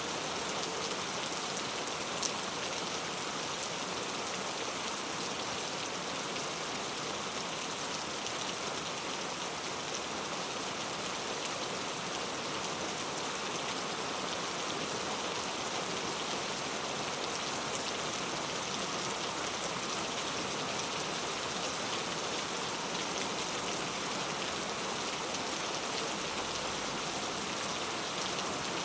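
Steady rain falling, an even hiss with occasional single drops ticking out of it.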